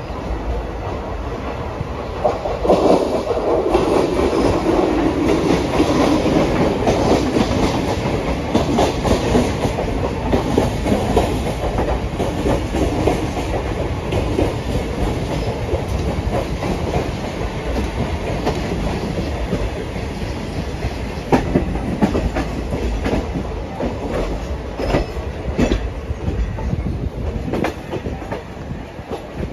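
Passenger express train running, heard from on board: a steady rumble of the coaches with repeated clicks as the wheels cross rail joints. A louder, fuller stretch of rumble swells a few seconds in and eases off after about ten seconds.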